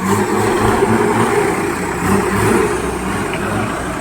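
Heavy vehicle's diesel engine running hard, loud, with a low throb that repeats a few times a second.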